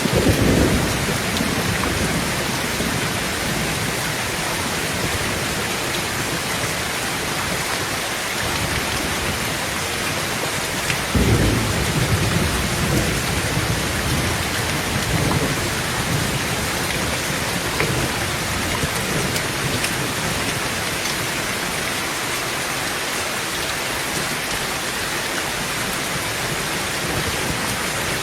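Heavy rain on a tin roof, a steady hiss, with thunder rumbling at the start and a sudden, louder thunderclap about eleven seconds in that rumbles on for several seconds.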